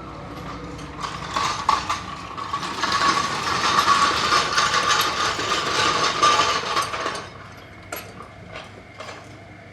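Ratchet wrench clicking rapidly for about six seconds as a bolt is spun, then a few separate sharp metal taps near the end.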